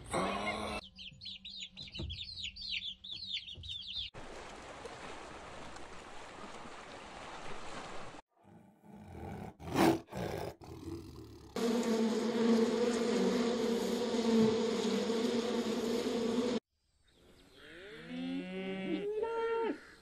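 A string of short animal-sound clips cut together. In the first seconds there are rapid high chirps. In the middle comes a steady low drone lasting about five seconds, the loudest part. Near the end a cow moos, a call that falls in pitch.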